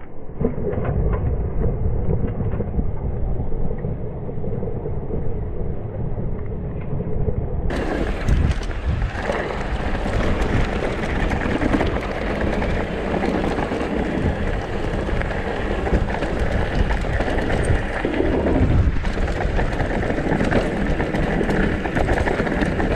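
Downhill mountain bike descending a rough trail: tyres rumbling over dirt and rocks, the bike rattling, and wind on the microphone. The sound is muffled for about the first eight seconds, then turns fuller and brighter.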